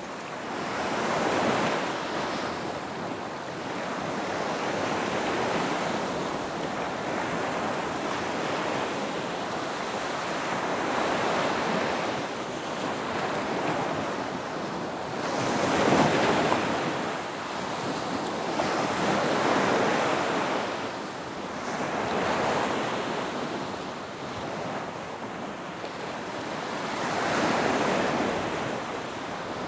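Ocean waves breaking on a beach: a steady wash of surf that swells and falls as each wave breaks, with the biggest breaks about every few seconds, one of them about halfway through the loudest. Some wind noise on the microphone.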